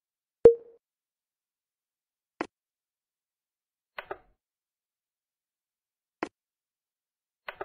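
A sharp click with a short ringing tone about half a second in, then fainter clicks, some doubled, every two seconds or so, with silence between.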